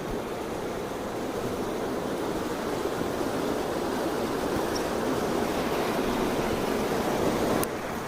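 Mountain stream rushing over rocks, a steady wash of water that drops a little in level near the end.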